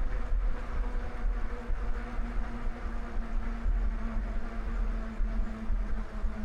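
Wind buffeting the microphone while riding a bike, an uneven low rumble, with a steady hum underneath.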